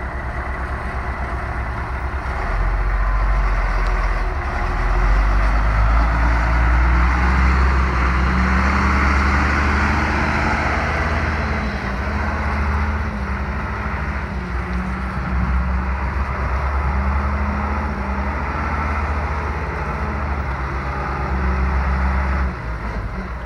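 1990 International 4900 dump truck's diesel engine running. It gets louder about two and a half seconds in and holds there, then drops back near the end.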